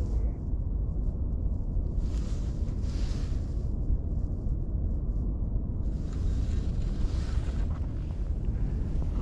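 Wind buffeting the microphone: a steady low rumble, with two stretches of brighter hiss.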